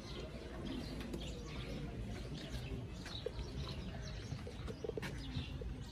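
Small birds chirping here and there over a steady low outdoor rumble.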